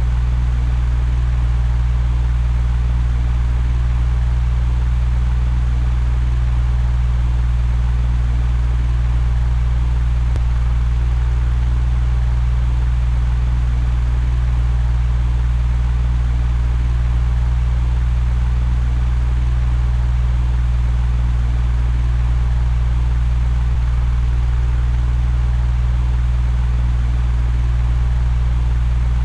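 Electric fan running steadily: a low, even motor hum under a constant rush of air.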